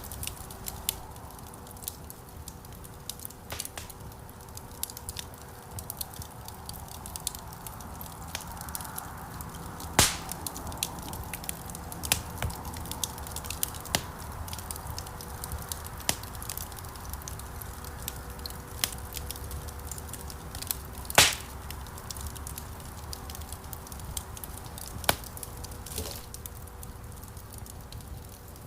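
Wood fire crackling in a fireplace: a steady low rumble of flames with irregular small snaps and a few louder pops, the loudest about ten seconds in and again about twenty-one seconds in.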